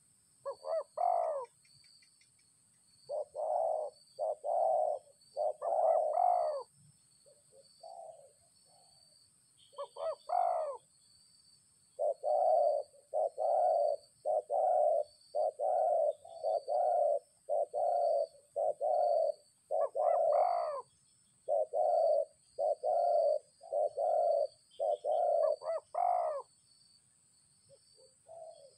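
A dove cooing over and over: runs of short, low coos at about two a second, broken by a few longer coos that rise and fall.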